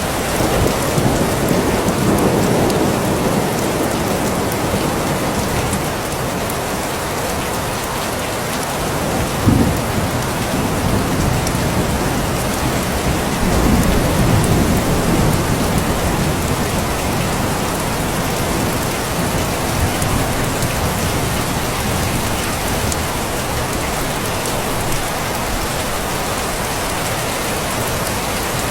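Steady heavy rainfall with low rumbles of thunder, swelling near the start and again about halfway through. There is a short sharp louder crack about nine seconds in.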